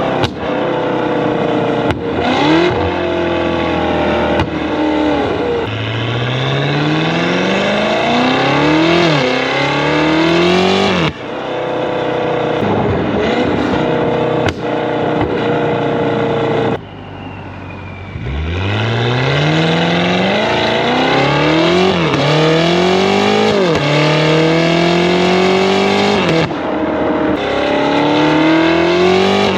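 BMW S68 twin-turbo V8 with free-flow downpipes and a valved full exhaust, picked up close to the tailpipes, accelerating hard through several gears. The pitch climbs in each gear and breaks briefly at every upshift. About 17 seconds in the engine lifts off for a moment, then pulls through the gears again.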